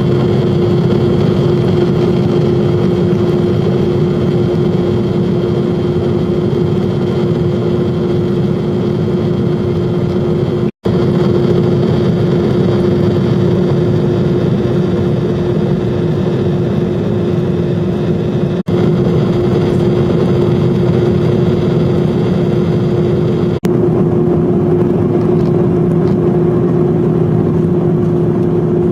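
Jet airliner engines running at high power, a steady loud drone with a constant hum, heard from inside the passenger cabin. The sound drops out for an instant about a third of the way through and briefly twice more later.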